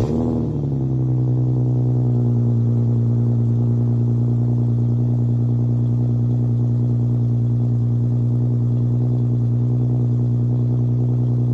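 Car engine catching, its revs falling from the start-up flare within the first second, then settling into a steady, even idle.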